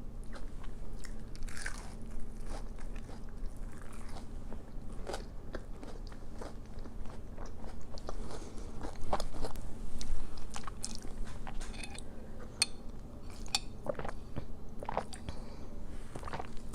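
A person biting and chewing crispy breaded fried-style food: irregular crunches scattered throughout, a little denser and louder about nine to ten seconds in.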